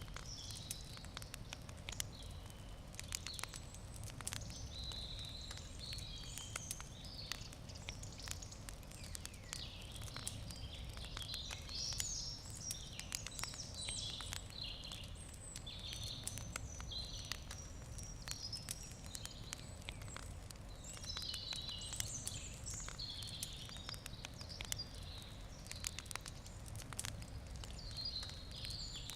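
Wood campfire crackling, with frequent irregular sharp pops and snaps over a low steady rumble. Birds chirp in the background.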